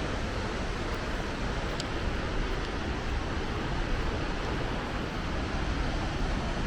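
Waterfall running: a steady rush of falling water, even and unbroken, with a deep low rumble.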